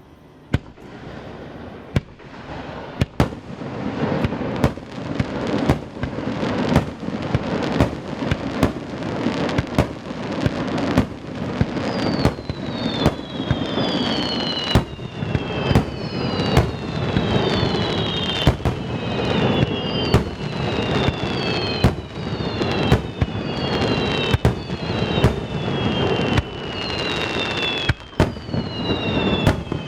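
Fireworks display: aerial shells fired from a valley floor, banging in a rapid barrage that grows dense a few seconds in, echoing off the surrounding mountains. From about halfway on, repeated falling whistles sound over the bangs.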